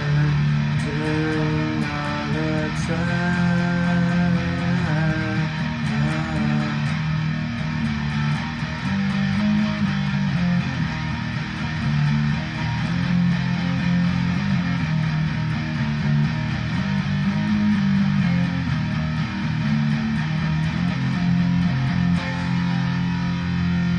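Instrumental guitar music without singing: a plucked guitar melody in the first several seconds over steady low notes that carry on to the end.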